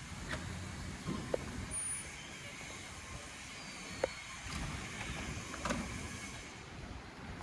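Road traffic going by: a steady low rumble with a few light clicks.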